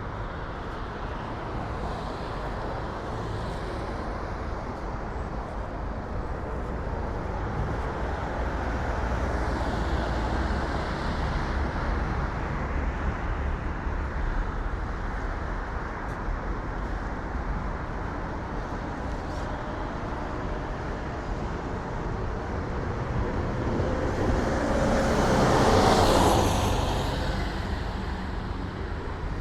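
Road traffic going by, a steady rumble of passing cars. One vehicle passes close, swelling up to the loudest moment a few seconds before the end and then fading.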